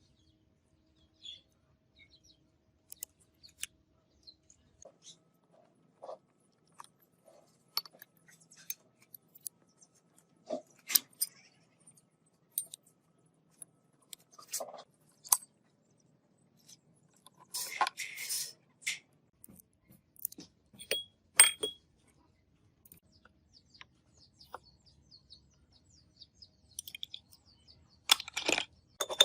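Scattered clinks and knocks of small metal parts being handled and set down, with a short scraping burst midway and a quick run of clinks near the end.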